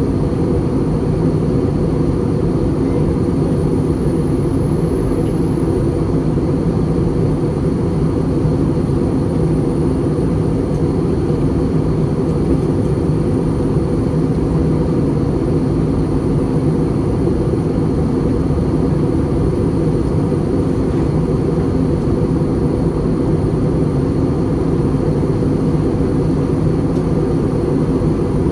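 Steady roar of an Airbus A320's cabin in flight: engine and airflow noise with a low hum, unchanging throughout.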